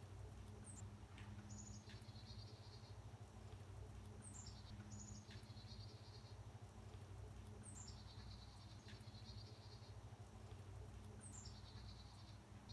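Faint bird song, one phrase repeated about every three and a half seconds: a short high falling note followed by a buzzy trill lasting about a second, over a steady low hum.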